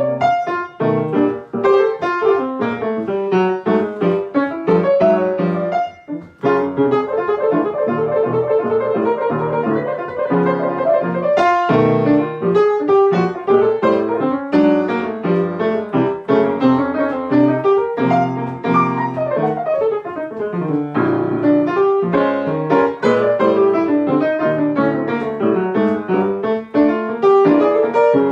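Solo jazz piano: a straight-ahead jazz tune played without vocals, with a brief pause about six seconds in.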